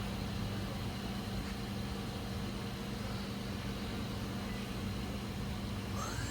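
Spindle of a Smart SV2 CNC vertical machining center running steadily at 3,000 RPM with a steady hum, then starting to speed up near the end with a rising whine as it is stepped up to 6,000 RPM.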